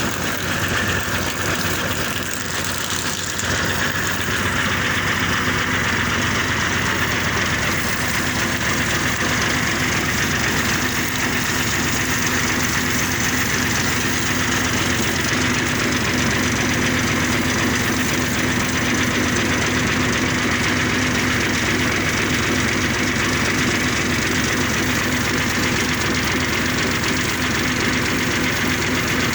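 An engine or motor running steadily at one speed with a constant hum, under a steady hiss.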